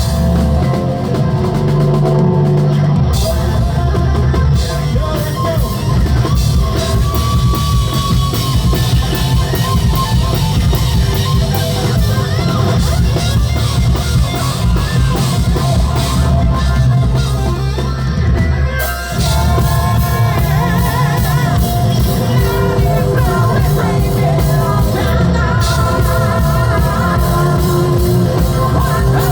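Live rock band playing loud through a concert PA: drum kit, distorted guitars and bass with a lead singer. There is a short break about two-thirds of the way through, then the vocals come back in over the full band.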